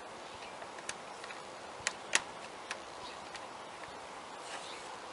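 Sharp plastic clicks and taps from handling the air filter box and its clips on a 2015 Honda Fit while the housing is refitted. There are about five separate clicks, the loudest a little over two seconds in.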